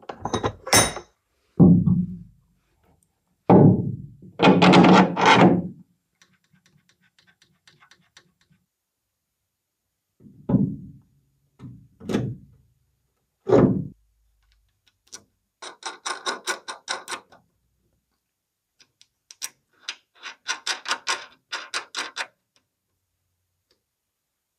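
Metal car suspension parts and tools being handled: several heavy thunks and knocks, then two runs of rapid, even clicking at about eight clicks a second, each lasting a couple of seconds.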